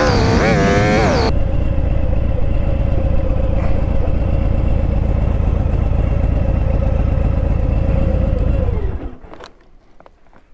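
Motorcycle engine: wind rush stops about a second in as the bike slows, then the engine idles steadily before being switched off about nine seconds in, its note sinking as it dies. A few faint clicks follow.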